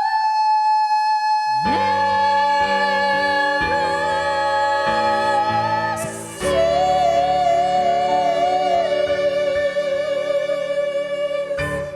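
Church singers with keyboard accompaniment holding long sustained notes. A single high note is joined by lower chords about two seconds in. After a short break near the middle, a second long note with wide vibrato is held, and everything stops just before the end.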